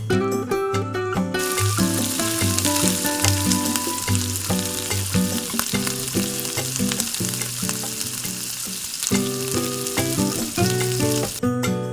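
Food frying in hot oil, a steady sizzle that starts about a second and a half in and stops shortly before the end. Plucked-string background music plays under it.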